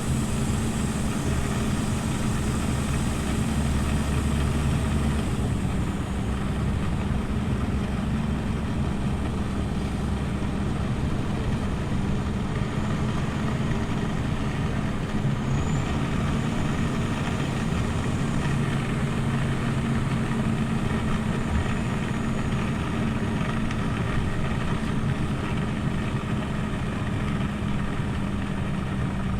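Scania OmniLink CL94UB city bus engine running steadily, with a deep low hum that drops away about five seconds in.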